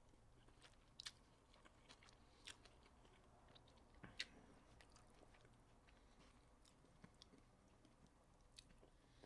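Faint close-up chewing of a mouthful of food: scattered small clicks and crunches, a few slightly louder than the rest.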